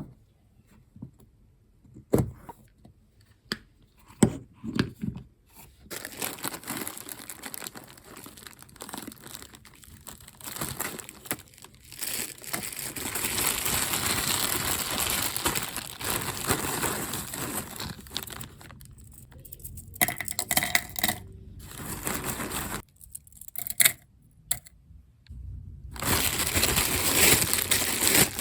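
Paper being handled at a desk: rustling and crinkling sheets with some tearing, and scattered small taps and clicks in the first few seconds.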